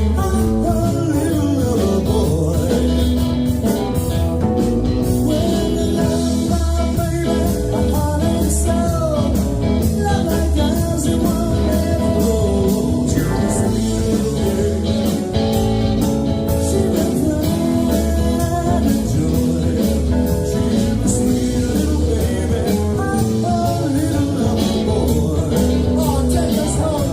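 Live band playing a blues-rock song, with guitar, drums and a voice singing.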